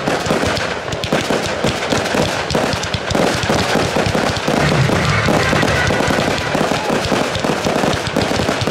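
Fireworks display going off without a break: a dense run of many bangs and crackles every second as shells burst and comets rise.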